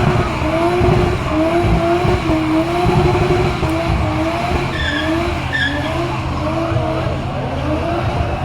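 A car doing a burnout: the engine held at high revs, its pitch wavering up and down in regular waves as the throttle is worked, over the hiss of the driven wheels spinning on the tarmac.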